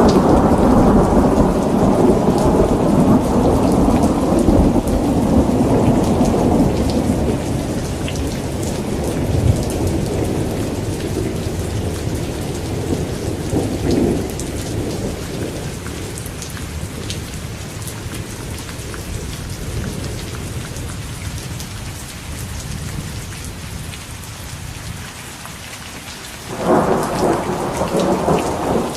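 Steady rain with thunder: a long low rumble slowly dies away, then a new peal of thunder breaks in suddenly near the end.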